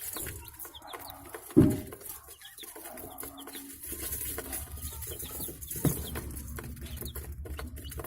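Budgerigars chirping and chattering in quick, short high calls. A loud thump comes about a second and a half in and a smaller one near six seconds, and a low drone sets in about halfway through.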